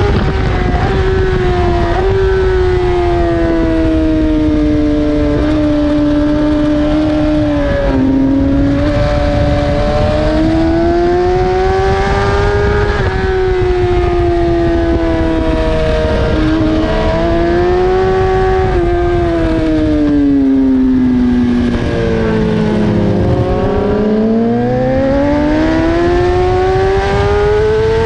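BMW S1000RR inline-four engine at racing speed, its pitch rising and falling in long sweeps as the throttle opens and closes. Near the end it drops low as the bike slows hard, then climbs again under acceleration, over a steady rush of wind noise.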